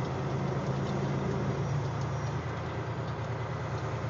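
Semi truck's diesel engine heard from inside the cab while rolling, a steady low drone whose pitch steps down slightly about one and a half seconds in.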